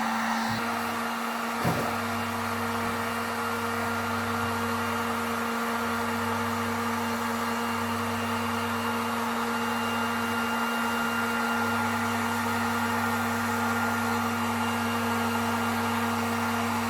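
Heat gun running steadily, its fan blowing with a constant hum, as it softens paint for scraping. A single short knock about two seconds in.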